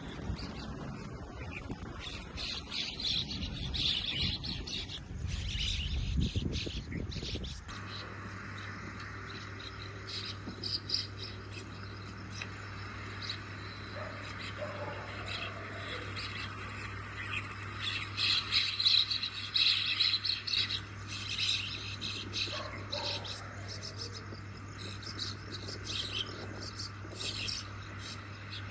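A flock of common mynas calling, many overlapping short chirps and chattering notes.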